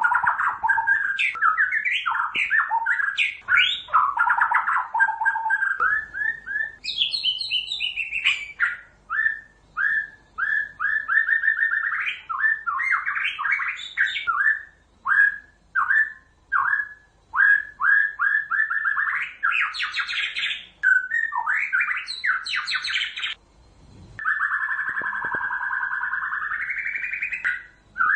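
White-rumped shama singing a long, varied song of rapid whistled notes and chattering phrases, with a long held note near the end.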